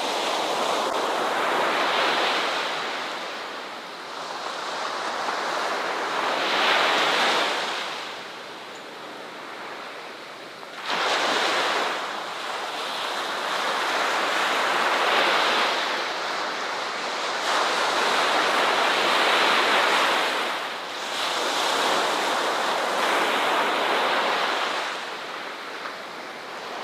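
Ocean surf: waves breaking and washing up the shore, swelling and ebbing every few seconds. One wave breaks suddenly and loudly about eleven seconds in.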